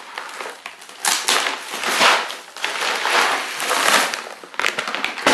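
Loose plastic 0.25 g airsoft BBs rattling and shifting in their burst-open package as it is handled. The sound comes as a run of gritty swells full of small clicks.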